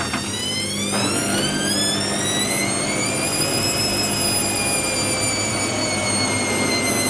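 Hoover WDYNS654D washer dryer's drum motor speeding up, a whine rising in pitch over the first few seconds and then levelling off. It sounds a bit rough.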